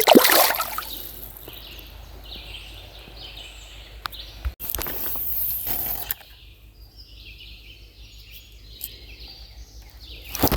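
Outdoor summer ambience: a steady run of short, high-pitched chirps repeating throughout. A loud noisy rush comes at the start and another from about four and a half to six seconds in.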